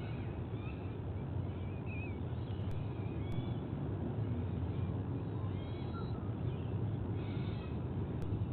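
Several short bird chirps and calls over a steady low rumble.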